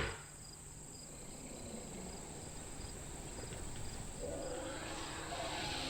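A steady high insect chorus, with a faster, regularly pulsing chirp beneath it, over a low background rumble. About four seconds in, a louder, rushing sound swells up under the insects.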